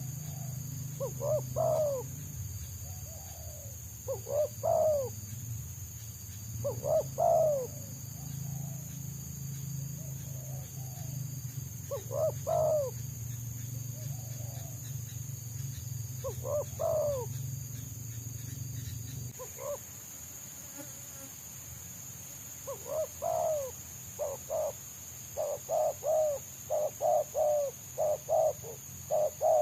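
Spotted doves (tekukur) cooing: separate coo phrases every few seconds, then from about three-quarters of the way through a fast run of coos close together. A steady high whine runs underneath throughout, and a low hum stops about two-thirds of the way through.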